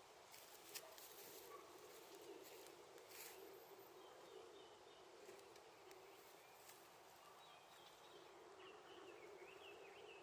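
Faint crackling of a small wood fire, with scattered sharp pops and snaps, most of them in the first few seconds. From about halfway through, faint bird chirps are heard in the background.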